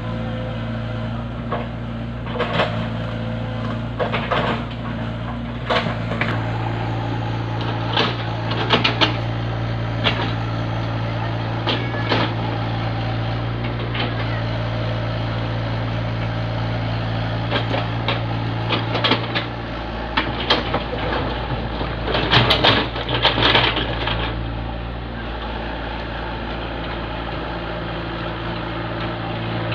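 An engine running steadily, with scattered sharp knocks and clanks, most of them bunched around three quarters of the way through, when the engine hum briefly drops away.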